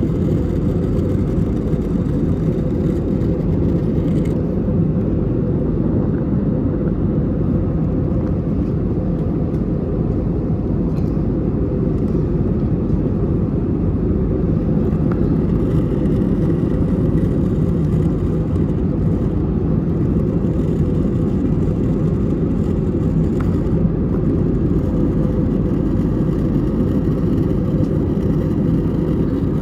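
Airbus A320neo cabin noise in flight, heard from a window seat: a steady, even roar of the engines and rushing air, strongest in the low range.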